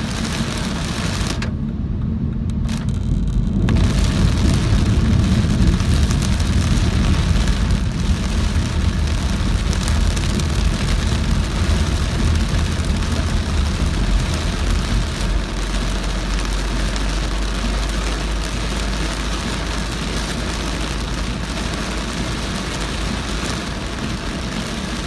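Heavy rain beating on a moving car over the low rumble of its tyres and engine. About a second and a half in, the rain hiss cuts out for about two seconds while the low rumble carries on.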